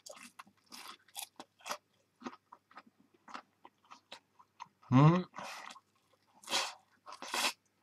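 Mouth chewing crisp egg tempura close to the microphone, the fried batter crackling in many small crunches. About five seconds in, a short hum of the voice, with a couple of breathy puffs near the end.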